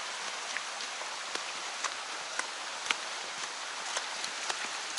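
Steady rushing of a mountain stream, with footsteps on the trail ticking about twice a second.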